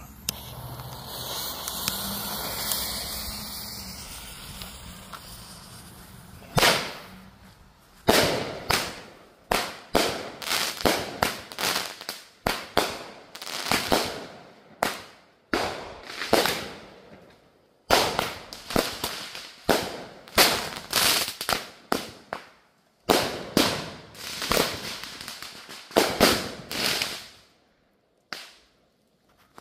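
Two consumer multi-shot firework cakes fired together: a few seconds of fuse hissing, then a rapid string of shots launching and bursting overhead, sharp bangs one to two a second, for about twenty seconds before they stop.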